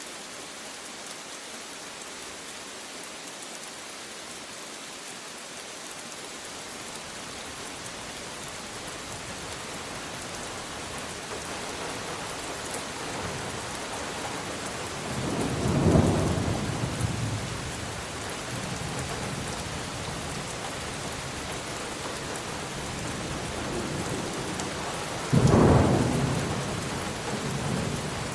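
Steady rain hiss that slowly grows heavier, with two rolls of thunder: one building to a peak about halfway through, and a sharper, louder clap about 25 seconds in that rumbles on for a few seconds.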